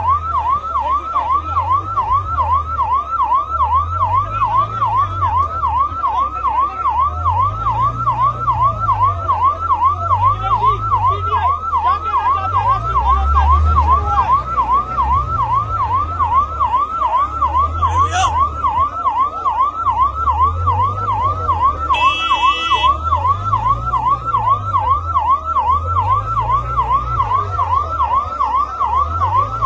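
Electronic siren sounding a fast yelp: a rising and falling wail that repeats several times a second without a break.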